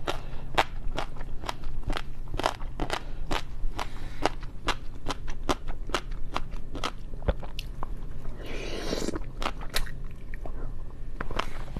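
Crunching and chewing of food, a quick run of sharp crunches a few times a second, with a short rustling noise about nine seconds in.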